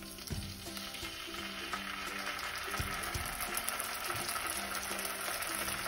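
Ghee and fried onions sizzling in a saucepan as ginger-garlic-coriander paste is spooned in, the frying hiss growing louder about two seconds in. A few soft knocks of the spatula against the pan.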